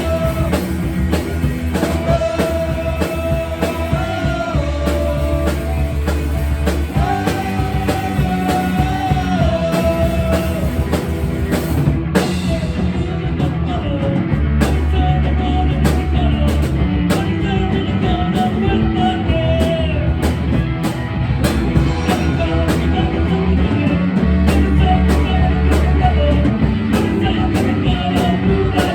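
A rock band playing a song: drum kit, bass and a held, bending lead melody.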